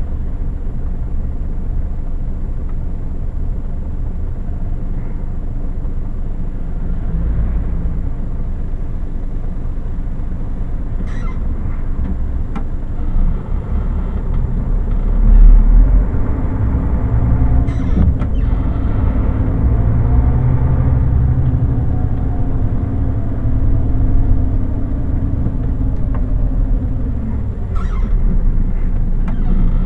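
Scania lorry's diesel engine and road noise while driving, a steady low rumble. The engine note rises and falls for several seconds about halfway through.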